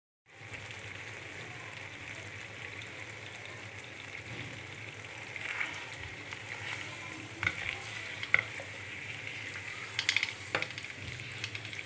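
Potatoes, peas and fenugreek leaves sizzling as they sauté in a wok, stirred with a spatula that scrapes and knocks against the pan now and then, more often in the second half.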